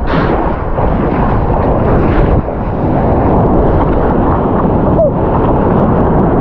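Steady loud rush of wind and water noise buffeting the microphone, with no clear separate events.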